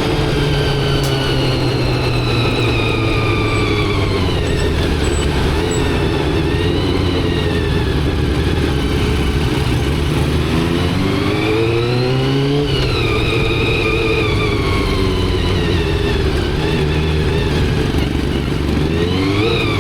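Motorcycle engine on the move, heard from the rider's position. The revs fall through the first few seconds, climb about two-thirds of the way in, then drop sharply as the rider shifts up. They ease off again and start climbing once more near the end.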